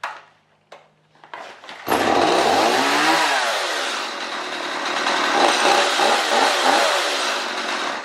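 Stihl MS 180 two-stroke chainsaw starting about two seconds in, after some handling noise, then running and revving up and down several times before it dies away near the end. It runs well on fresh fuel, with no sign of the reported no-start fault.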